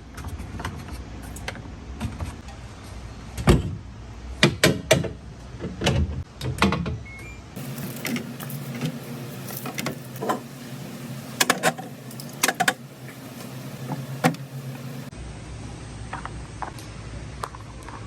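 Irregular knocks and clicks of objects being handled, coming in clusters, over a low steady hum.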